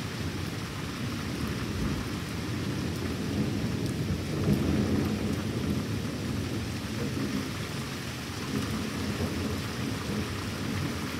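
Thunder rumbling on and on, a low rolling rumble that swells about halfway through, over steady rain.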